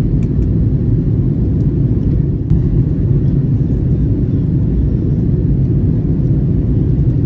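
Steady low rumble of engine and airflow noise inside the cabin of an Airbus A321neo airliner on approach, with a few faint clicks.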